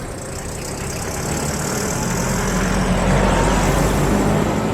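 A motor vehicle's engine and tyres going past close by, growing louder and then easing off near the end.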